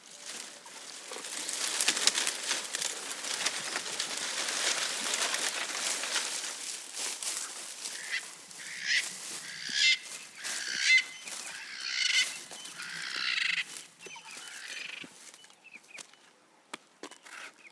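Leaves rustling and crunching as a giraffe browses, then a bird calling repeatedly for several seconds in the middle of the clip, fading near the end.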